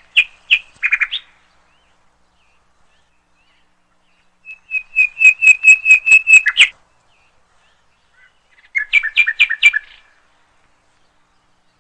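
A bird calling loudly in three bursts of rapidly repeated short, high notes, about six notes a second; the middle burst is the longest and loudest.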